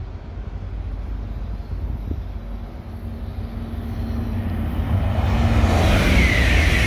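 E926 East-i Shinkansen track-inspection train approaching and passing on an elevated viaduct. Its rushing noise builds from about five seconds in and is loudest at the end, with a strong high hiss over a low rumble.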